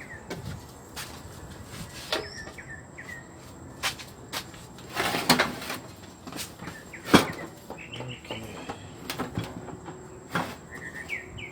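Scattered knocks and clicks from handling, with a short scraping rush about five seconds in and a sharp knock, the loudest sound, about two seconds later. Small birds chirp a few times in the background; no engine is running.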